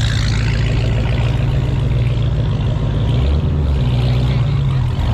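A car engine running nearby with a deep, steady drone that shifts a little in pitch about three seconds in.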